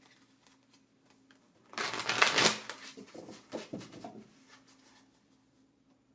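A deck of cards being shuffled: a dense flurry of card flicks for about a second, starting about two seconds in, then a few lighter taps and slides that stop about four seconds in.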